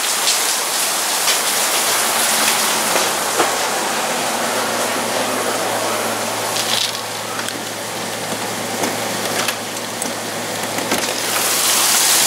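Heavy rain pouring down in a thunderstorm, a steady rushing hiss with scattered sharp drip taps, growing louder near the end.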